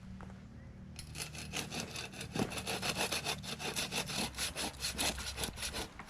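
Hand saw cutting through wood with quick, even back-and-forth strokes, starting about a second in.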